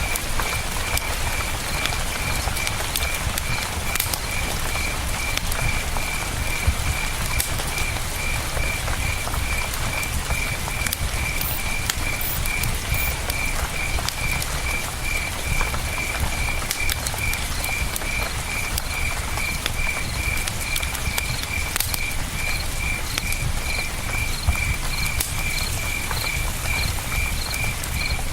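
Campfire crackling with scattered sharp pops over the steady rush of river water, with a cricket chirping in an even rhythm throughout; a second, higher-pitched cricket joins in past the middle.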